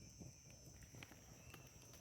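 Faint insect chorus, a steady high trill, with a few faint sharp clicks about every half second.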